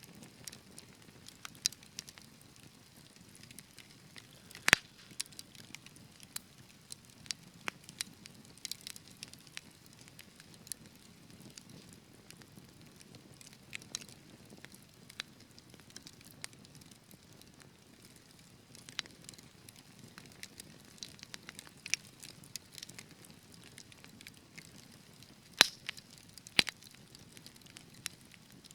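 Wood fire in a fireplace crackling, with a soft low rumble of flames and irregular sharp pops, two louder snaps about five seconds in and near the end.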